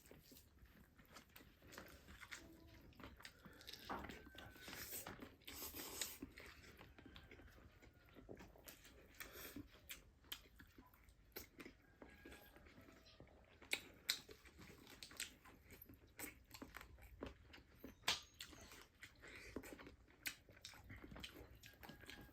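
Quiet chewing and biting of food, with scattered sharp crunches and mouth clicks at irregular intervals.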